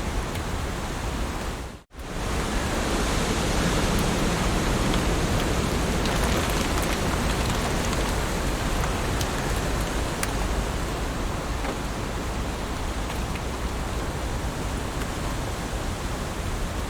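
Heavy rain falling steadily in a dense, even hiss. The sound cuts out for a split second about two seconds in, then resumes as before.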